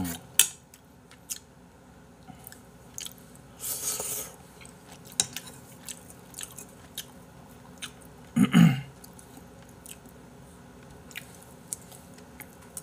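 Close-miked mukbang chewing: a person eating gopdoritang, spicy braised chicken stew with noodles, with many small wet mouth clicks. A short breathy hiss comes about four seconds in and a brief low vocal hum a little after eight seconds.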